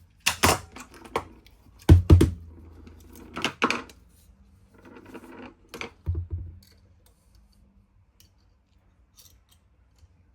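Metal parts being handled: the steel VDI 40 drill chuck and the tools used to measure it clink and clatter in about five short clusters over the first seven seconds, with only a few faint ticks after.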